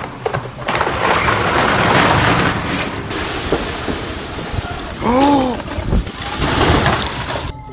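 Strong storm wind gusting and buffeting the microphone in loud waves of noise. About five seconds in, a short voice-like cry rises and falls.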